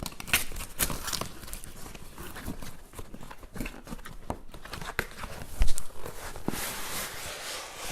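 A cardboard box being opened by hand: irregular knocks, scrapes and rustling of cardboard, with the sharpest knock about five and a half seconds in and a stretch of tearing or rustling near the end.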